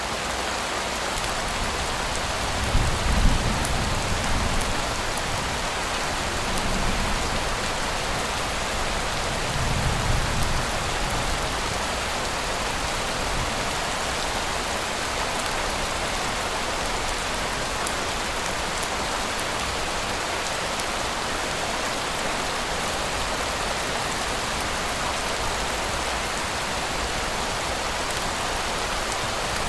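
Steady rain falling, an even hiss, with two brief low rumbles about three and ten seconds in.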